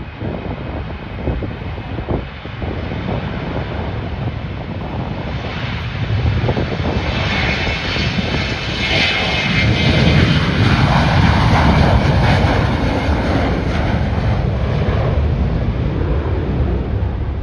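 Airliner's engines passing close by, the sound building to a peak about ten seconds in, with a whine on top, then fading. Wind buffets the microphone early on.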